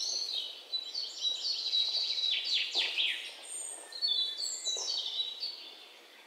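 Birds chirping and trilling over a steady outdoor hiss, with high quick calls throughout and a run of short downward-sweeping chirps about three seconds in.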